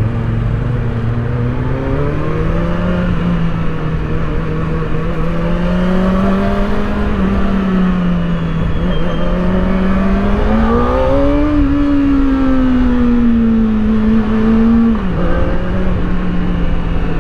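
Kawasaki Ninja ZX-4RR's inline-four engine running through its stock muffler while riding. The revs climb about two seconds in, hold steady, rise again past the middle, ease off, then drop suddenly near the end.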